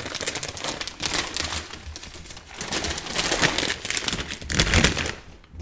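Crunching and crinkling from chips being eaten close to the microphone: dense, irregular crackles that come in louder clusters.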